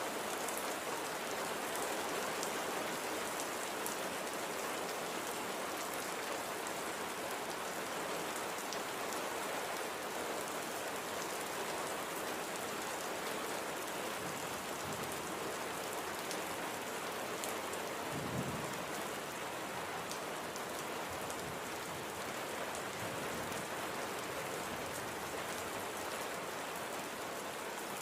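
Steady light rain falling, an even hiss. There is one brief low thump about two-thirds of the way through.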